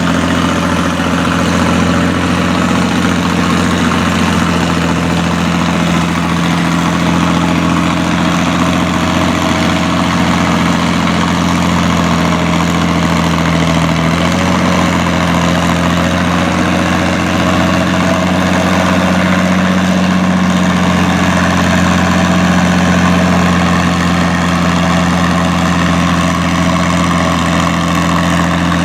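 Farm tractor engine running steadily, its pitch stepping up slightly about halfway through.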